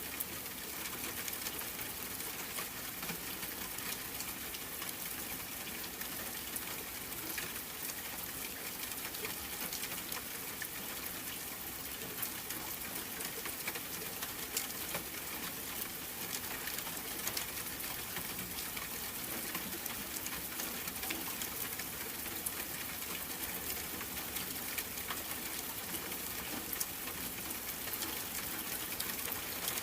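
Steady rain falling, a constant hiss with a fine patter of individual drops.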